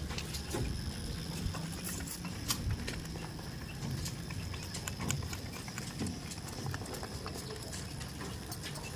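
Goats moving about in their pen: scattered light knocks and clicks of hooves, over a steady low hum and a faint steady high tone.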